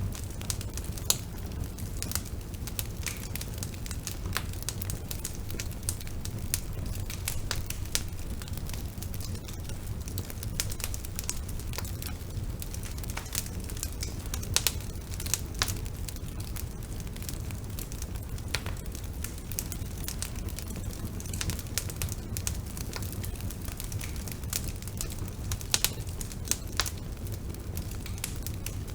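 Bonfire burning with a steady low rumble and frequent irregular crackles and pops of burning wood.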